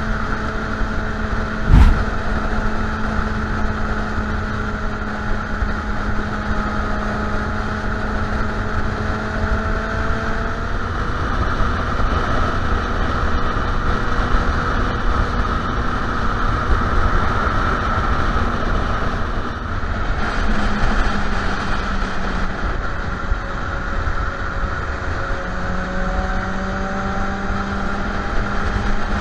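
Suzuki Bandit 650N's inline-four engine running at a steady cruise under a constant rush of noise, its pitch drifting slowly and rising again near the end. A sharp knock about two seconds in.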